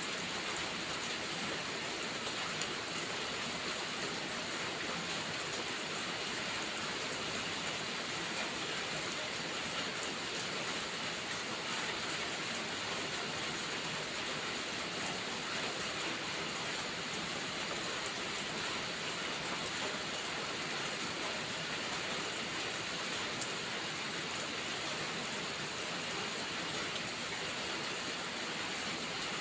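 Steady rainfall: an even, unbroken hiss of rain on surfaces.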